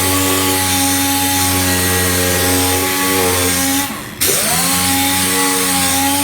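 Power sander running steadily on bodywork, sanding the tank. About four seconds in it winds down and stops, then starts again and spins back up to speed.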